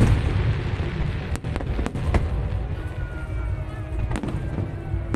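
Aerial fireworks bursting: a string of sharp bangs, several close together about a second and a half to two seconds in and again after four seconds, over a steady low rumble.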